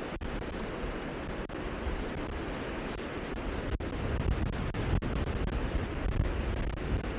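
Wind blowing, a steady rushing noise with low buffeting on the microphone that grows stronger about four seconds in. The sound briefly drops out a few times.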